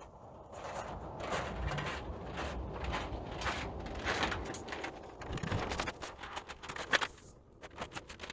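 Irregular scraping and knocking as sawdust is dug out of a sawmill's sawdust pit and into a bucket.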